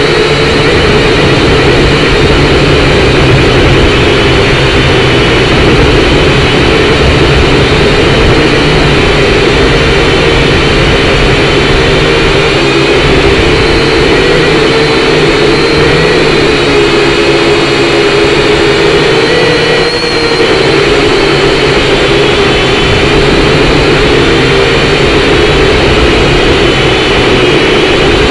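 Syma X5C quadcopter's small motors and propellers buzzing steadily in flight, the pitch wavering up and down as the throttle changes, with strong wind rumbling over it.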